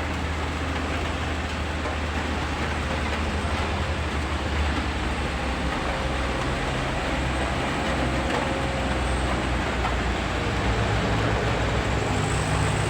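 Heavy truck engine running steadily with a low drone over road noise, getting a little louder near the end.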